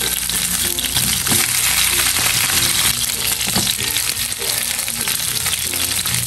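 Eggplant halves sizzling steadily as they fry in oil in a nonstick pan, with a few light knocks of a plastic spatula moving them.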